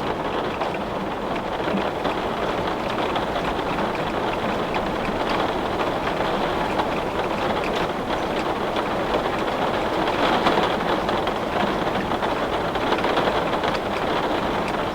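Heavy rain falling steadily on a window, with scattered sharper drop ticks and a couple of brief swells in intensity past the middle.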